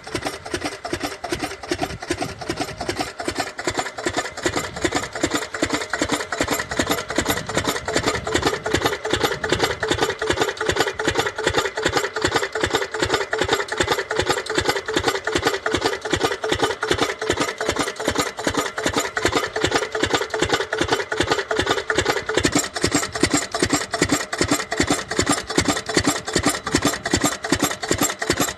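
10 hp diesel water-pump engine running steadily under power, with an even, rapid beat of firing strokes.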